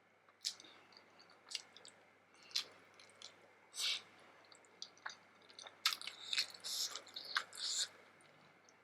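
Close-up chewing of vegetable momo dumplings: scattered mouth clicks and smacks, coming thicker about six to eight seconds in.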